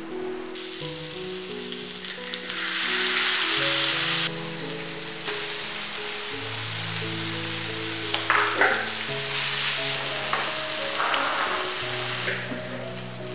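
Perilla leaves and cucumber slices sizzling as they stir-fry in hot oil in a wok, with a louder surge of sizzling from about two and a half to four seconds in and a few sharp clicks from stirring around eight seconds in.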